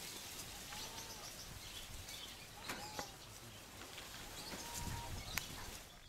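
Outdoor ambience with three short, arched whistled bird calls about two seconds apart, plus a few sharp clicks, the loudest near the end.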